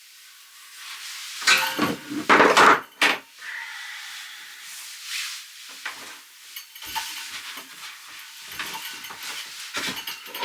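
Dishes being washed by hand in a basin: plates and cutlery clattering, loudest about two to three seconds in, then a steady hiss of water with lighter clinks.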